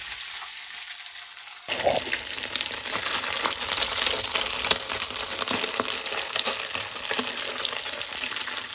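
Octopus tentacles frying in a nonstick pan: a steady sizzle that turns louder and crackling about two seconds in.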